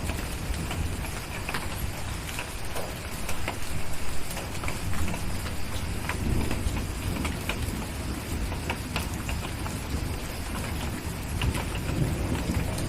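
Steady rain with scattered sharp crackles from a wood fire, and a low rumble of distant thunder that swells a few times.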